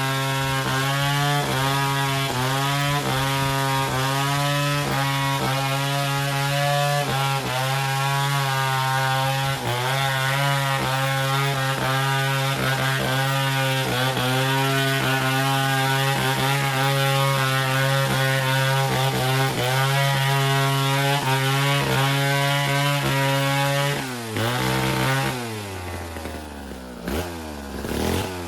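Chainsaw running at high revs and cutting wood, its pitch dipping slightly again and again as it takes the load. Near the end the throttle is let off and the engine falls toward idle, then it revs up again just at the close.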